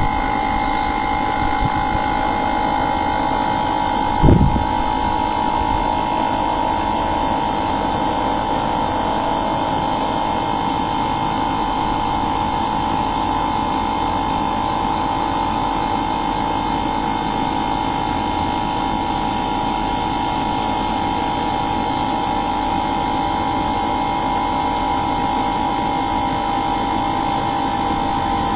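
Steady machine hum with a constant whine and a thin high tone, broken once by a short knock about four seconds in.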